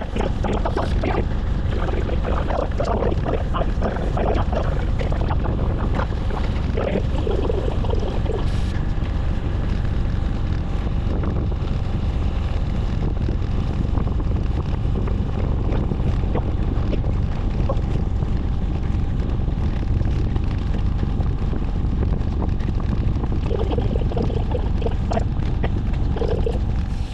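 Wind buffeting the microphone as a steady low rumble. Faint voices come through now and then, near the start and near the end.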